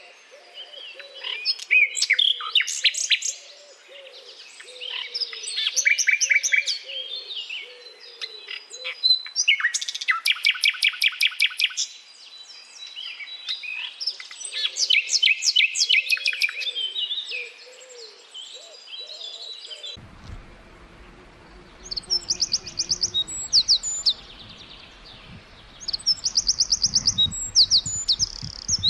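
Common nightingale singing: loud phrases of a second or two made of fast, rapidly repeated whistled notes and trills, each followed by a pause of about the same length.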